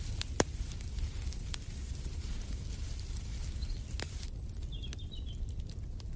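Wood fire crackling in a fireplace, with irregular sharp pops over a steady low rumble. A few faint, quick bird chirps come just after the middle.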